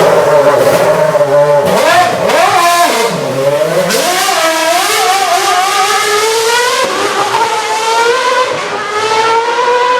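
Caterham Formula One car's V8 engine running at high revs with a shrill scream. About two seconds in, the revs dip and flare sharply a few times. After that the pitch climbs steadily as the car accelerates, with a brief drop at a gear change near the end.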